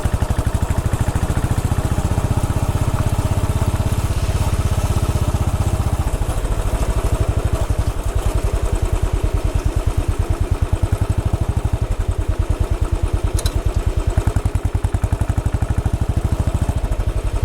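Royal Enfield Bullet 500's single-cylinder engine running with evenly spaced firing beats. The beats slow about six seconds in, and the engine settles to a steady idle.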